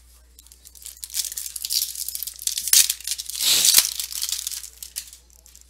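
Foil trading-card pack being torn open, the wrapper crinkling and rustling for a few seconds, loudest a little past the middle.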